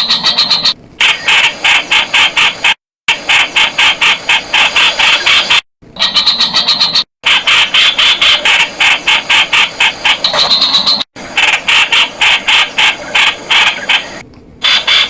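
Streak-eared bulbul calling: fast runs of short, harsh notes, about five a second, broken several times by brief, abrupt gaps.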